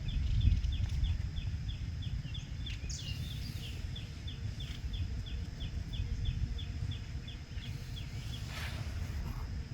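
Outdoor natural ambience: a bird repeating a short, high chirp about three times a second, which stops near the end, over a steady low rumble.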